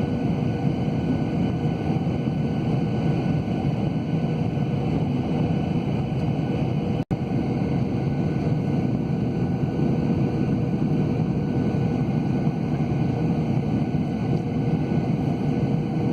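Steady roar of a Boeing 737-800's jet engines and airflow heard inside the passenger cabin, a low even rumble with a faint steady hum. The sound cuts out for an instant about seven seconds in.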